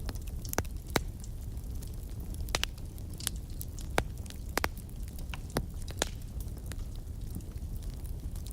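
Wood fire burning in a fireplace, a steady low rumble with irregular sharp crackles and pops, the loudest about a second in and again about four seconds in.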